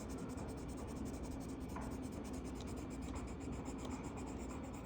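A marker rubbing on the paper of a colouring-book page as a page is coloured in: a faint, steady rubbing.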